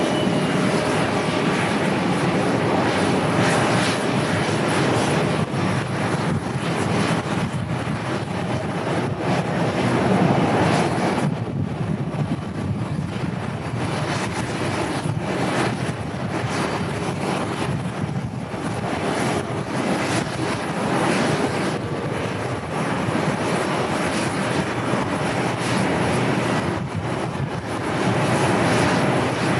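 Airliner engines running steadily as a plane flies past the airport, mixed with gusting wind on the microphone.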